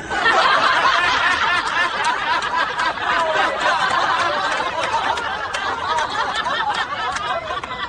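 Laughter from several people, breaking out suddenly and going on for several seconds.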